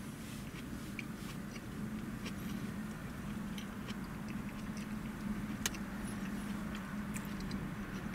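A man chewing a mouthful of burger with mouth closed, making small wet mouth clicks. Under it runs a steady low hum in the car cabin.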